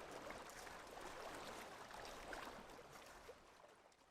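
Faint rushing water ambience, fading away over the last second.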